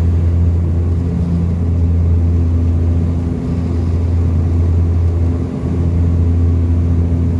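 Dash 8 Q400 turboprop heard from inside the cabin in flight: the steady, loud, low drone of its propellers and engines, a deep hum with higher overtones.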